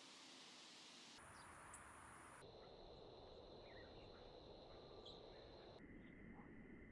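Faint outdoor ambience with steady high-pitched insect trilling and a few faint chirps. The background changes abruptly three times, as at cuts between timelapse clips.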